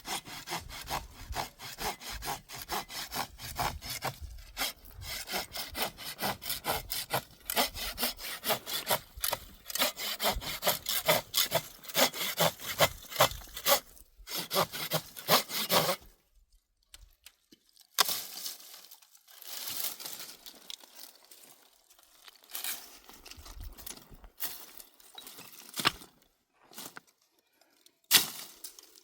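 Hand saw cutting through firewood in steady back-and-forth strokes, about two a second. About sixteen seconds in, the sawing stops and is followed by scattered snaps and knocks of wood.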